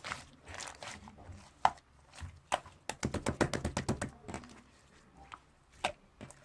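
Slime being squished and poked by hand, making sticky clicks and pops, with a quick run of them, about ten a second, in the middle.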